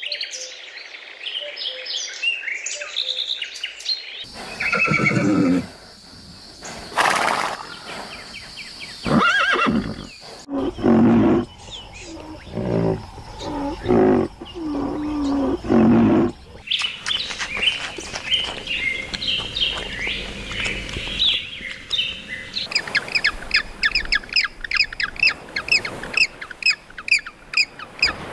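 A series of animal sounds from separate clips: high chirping at first, then a run of loud calls from about four seconds in to about sixteen seconds, then quick, rapidly repeated chirping to the end.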